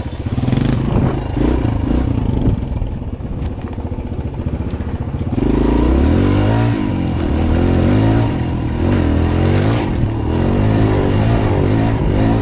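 Dirt bike engine running, getting louder about halfway through as it is revved, its pitch rising and falling with the throttle.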